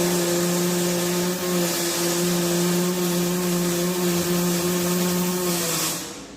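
Electric angle grinder running at a steady pitch with a hissing edge, switched on just before and shut off about six seconds in.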